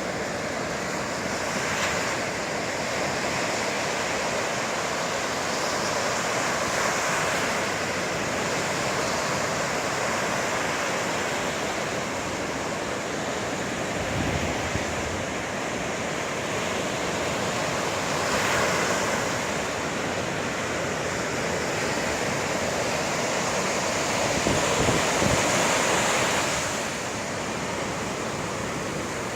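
Sea surf: waves breaking and washing continuously, with bigger breaks swelling up several times, about a quarter of the way in, past the middle, and louder near the end.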